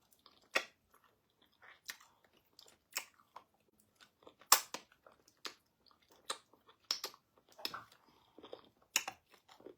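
Mouth eating sounds: chewing with irregular wet clicks and smacks, about one or two a second, from eating pounded yam with ogbono soup and meat.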